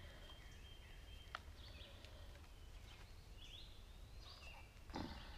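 Faint wild birdsong: scattered chirps and warbling phrases. A single sharp click comes a little over a second in, and a brief louder sound near the end.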